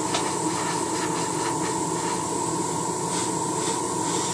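Airbrush spraying paint: a steady hiss of air with a steady hum and a high tone underneath, and a few faint short puffs.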